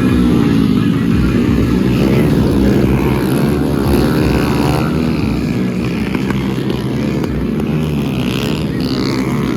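Small-displacement motorcycle engines racing, their pitch rising and falling as the throttle is opened and closed.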